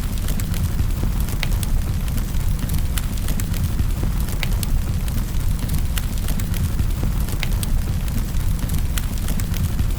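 Wood fire burning in a fireplace: a steady low rumble of the flames with sharp crackles and pops at irregular intervals, a few each second.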